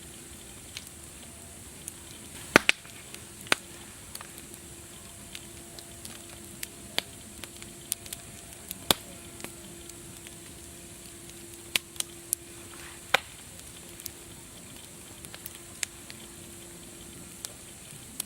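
Wood fire crackling: irregular sharp pops and snaps, several louder ones among many small ticks, over a steady soft hiss.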